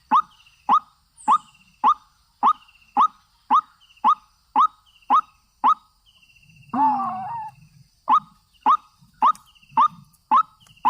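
White-breasted waterhen calling: a steady run of short, rising 'kwak' notes, about two a second. About six seconds in the run breaks for one longer, wavering call, then picks up again at the same pace.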